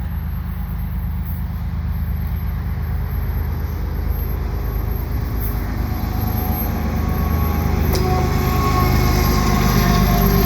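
Two GE ES44AC diesel-electric freight locomotives approaching. Their deep engine drone grows steadily louder, and thin higher-pitched tones join in over the last few seconds as the train nears.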